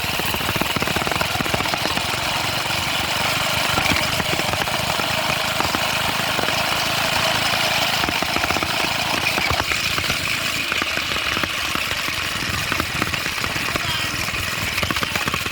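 Minibike's small engine running steadily with a rapid pulsing beat; its sound dulls slightly about ten seconds in.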